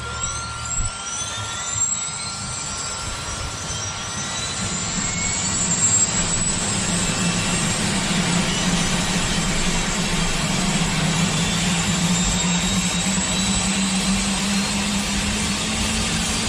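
Turbine helicopter engine starting: a whine rises in pitch over the first couple of seconds, then the engine and rotor sound builds and steadies as the rotor spins up.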